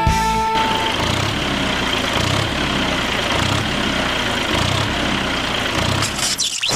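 Tractor engine running steadily, with a low throb about once a second; it cuts out briefly near the end.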